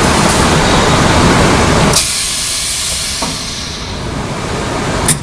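High-frequency PVC tarpaulin welding machine running a press cycle. A loud steady hiss cuts down sharply with a click about two seconds in. A second sharp click comes near the end.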